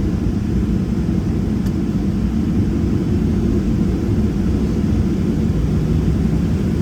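Cabin noise inside a Boeing 737-700 taxiing: a steady low rumble from its CFM56-7B engines at taxi power, with a faint steady hum.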